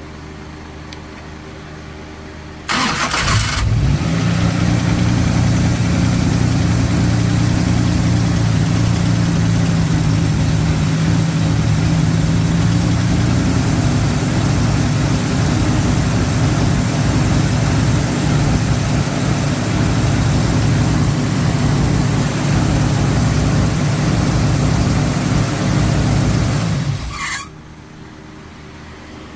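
Dodge 440 Magnum big-block V8 starting about three seconds in, running steadily for roughly 24 seconds, then shut off, with its ignition timing freshly set.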